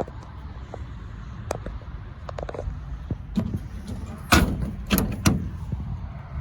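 Doors being worked: a few light clicks, then three sharp clunks between about four and five and a half seconds in, over a low steady rumble.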